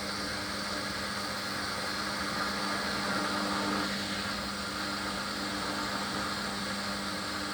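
Hoover HLW585DC washer dryer spinning its drum, with a steady motor hum and whine, during a spin burst on a full load. The load is unbalanced, so the machine rocks back and forth as it spins.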